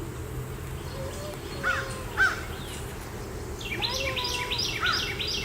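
Birds calling over a steady hum of honeybees at an open hive: a couple of short calls about two seconds in, then a quick run of calls, about four a second, near the end.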